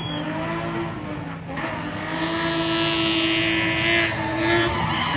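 Spinning car, a BMW E30, with its engine held at high revs and its rear tyres spinning and screeching as it circles in a smoky spin. The revs drop briefly about a second and a half in, then hold steady.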